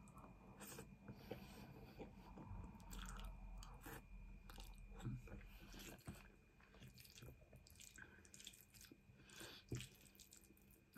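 Quiet, close-up chewing of a mouthful of tagliatelle bolognese, with soft wet mouth smacks and scattered small clicks.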